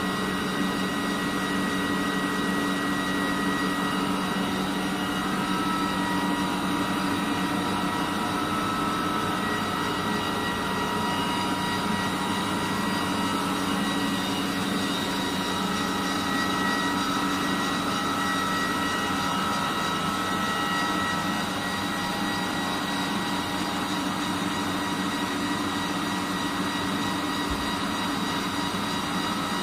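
2008 Haas TL-3B CNC lathe running, a steady mechanical hum and whine with several fixed tones.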